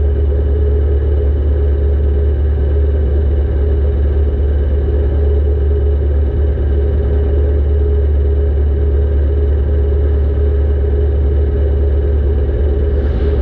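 Compact demolition derby car's engine running steadily, heard from a camera mounted on the car: a loud, even low rumble with no revving.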